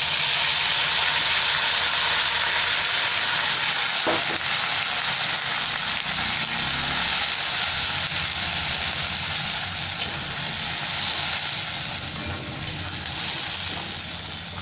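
Wet ground paste of tomato, onion, curd, ginger and garlic sizzling in hot mustard oil in a kadai as it is stirred with a metal spatula, a dense hiss that slowly dies down as the paste cools the oil.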